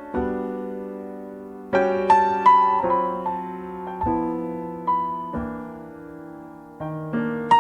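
Slow piano music: chords struck one after another and left to ring and fade between strikes.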